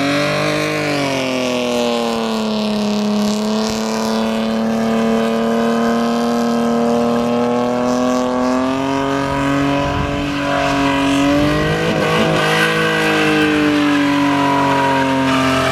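BMW E36 drift car's engine held at high, steady revs through a long slide. Its pitch sags slightly about two seconds in and wavers briefly near twelve seconds.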